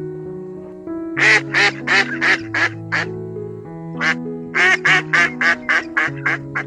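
Duck quacking in two quick runs of short calls, about six and then about ten, over background music with steady held notes.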